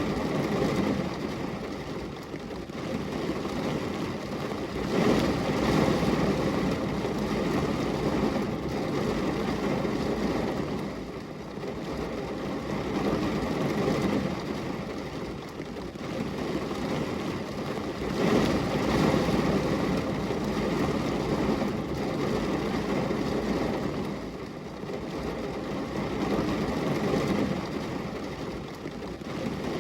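Steady rain, a deep, even rushing noise that swells and eases every several seconds.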